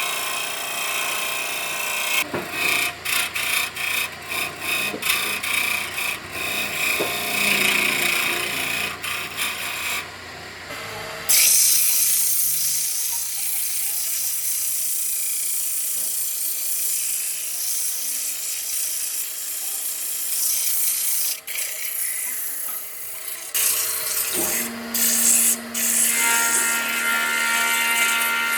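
Woodworking tools on wood. First comes a run of uneven rubbing strokes, like rasping or hand sanding. From about a third of the way in, a power tool runs with a steady hiss and a held tone, and near the end a different small motor runs with a steady whine.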